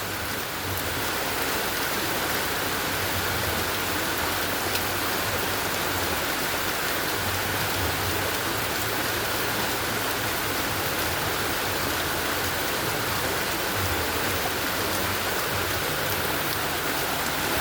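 Rain falling steadily, an even hiss without a break.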